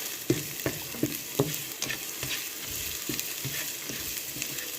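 Ginger and onion sautéing in hot oil in a frying pan, sizzling steadily, while a utensil stirs them and knocks against the pan about twice a second.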